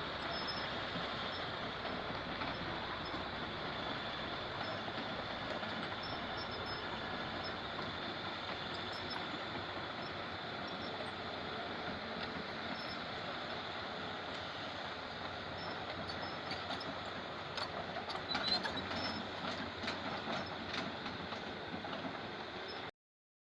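Hydraulic excavator running steadily as it works, with a few knocks about seventeen to twenty seconds in.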